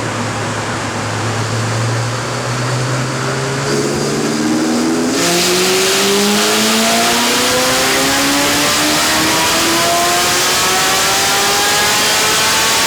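Ferrari 458 Spider's V8 on a chassis dyno: a steady low engine note for about four seconds, then a full power run with the revs climbing steadily, the sound getting louder and harsher about five seconds in.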